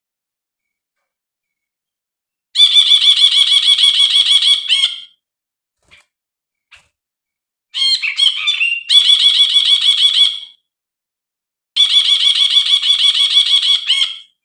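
Brinji (a bulbul) calling in three bouts, each a fast run of repeated notes, about eight a second, lasting some two and a half seconds, with silence between the bouts.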